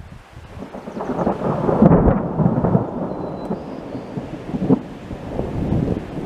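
Thunder rolling: a rumble that builds over the first two seconds to its loudest, then keeps rolling with crackling peaks.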